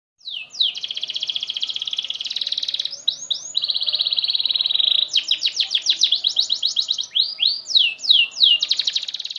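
Domestic canary singing one long, unbroken song: long rapid trills broken up by quick downward-sweeping notes, with hardly a pause, the sustained singing prized in a 'loper' canary.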